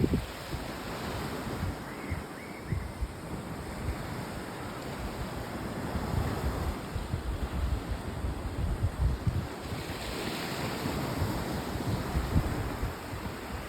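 Ocean surf washing continuously, with wind buffeting the microphone in low, irregular thumps. The hiss of the water swells about ten seconds in as a wave comes in.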